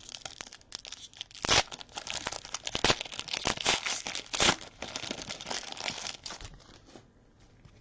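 A trading-card pack wrapper being torn open and crinkled in the hands, a dense crackling that stops about six and a half seconds in.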